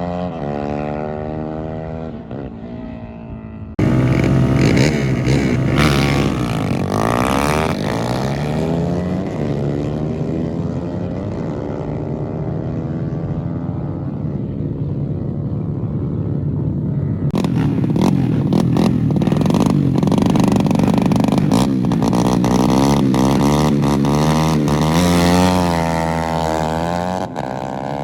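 Racing motorcycle engines revving hard and passing at speed, their pitch sliding down as they go by. A louder engine cuts in suddenly about four seconds in, and sharp crackles run through the engine noise over much of the second half.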